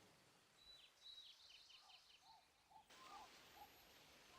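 Faint rainforest ambience with birds calling: a quick run of short high chirps, about four a second, alongside lower arched whistled notes.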